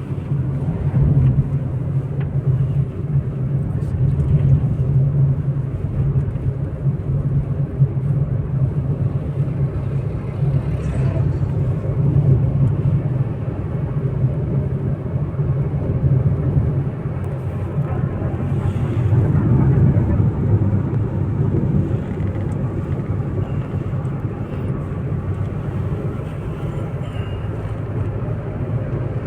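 Car driving along a road: steady engine and road noise, a continuous low hum that swells and eases slightly as it goes.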